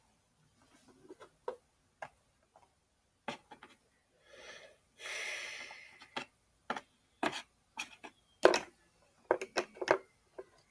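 Small plastic toys being handled, giving scattered clicks and taps, with a brief rustle or scrape about five seconds in.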